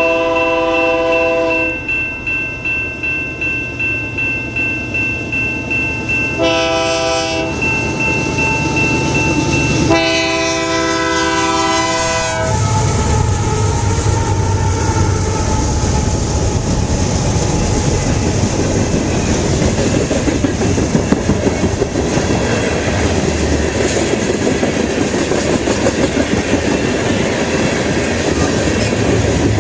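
Canadian Pacific freight train locomotive horn sounding three blasts, the last the longest, then the train passing close by with engine rumble and wheels clacking over the rail joints.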